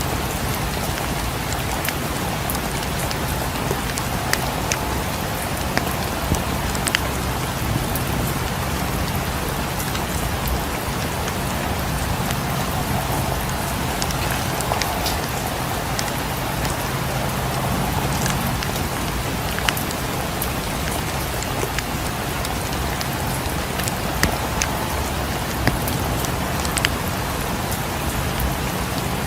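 Steady rain falling against a cabin's windows, mixed with the irregular sharp snaps and crackles of a wood fire in a fireplace.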